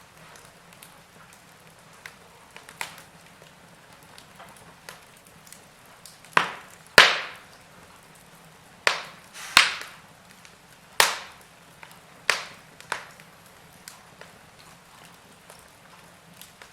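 Logs crackling in a fireplace: irregular sharp pops and snaps over a faint steady background, with a burst of about seven louder snaps in the middle of the stretch.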